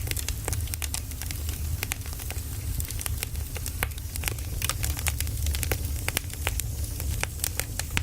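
Burning firewood crackling and popping: many sharp, irregular snaps over a steady low rumble.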